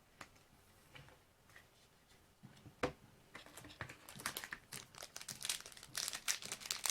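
Foil trading-card pack wrapper crinkling as it is handled and torn open. A few faint ticks come first, then a sharp click nearly three seconds in, then crinkling that grows louder over the last few seconds.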